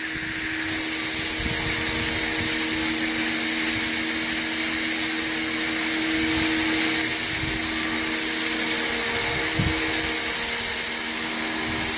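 Sun Joe SPX1000 electric pressure washer running steadily, its motor and pump humming under the hiss of water spraying through the foam cannon.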